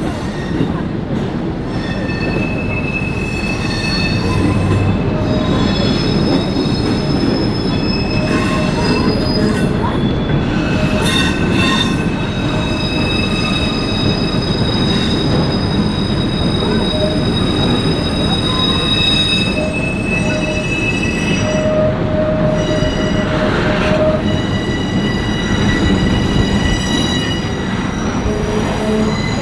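A train rolling past in a steady heavy rumble, its steel wheels squealing in several high, sustained tones that come and go.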